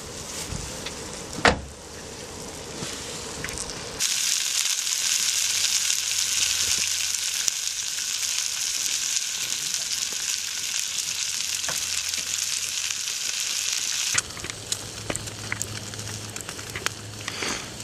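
Food frying in a pan over a campfire: a loud, steady sizzle starts suddenly about four seconds in and cuts off about ten seconds later. Softer crackling surrounds it, and a sharp knock comes about a second and a half in.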